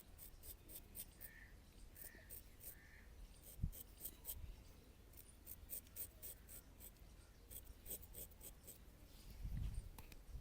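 Straight razor scraping through stubble in quick, short strokes, coming in clusters of crisp, faint scratches. A single soft low thump comes about a third of the way in.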